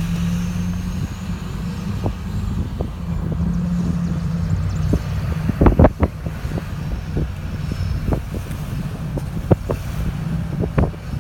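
A motor vehicle's engine running with a steady low hum, while scattered sharp knocks and clicks sound over it, the loudest a quick cluster of knocks about halfway through.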